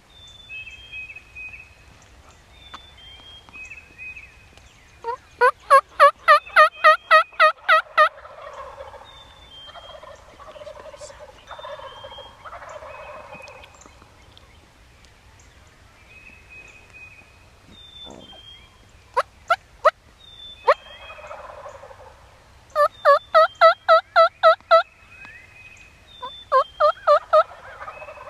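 Wild turkey calling: several loud runs of yelps at about four notes a second, with fainter rattling gobbles following them. Faint short bird whistles run underneath.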